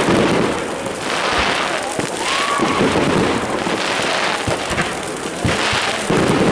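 Fireworks and firecrackers banging at irregular moments over a dense, steady crowd noise.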